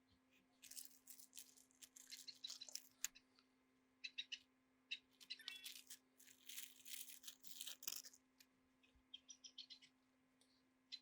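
Small clicks, ticks and light metallic clinks from hand work on electronic parts, coming in irregular bursts over a faint steady hum.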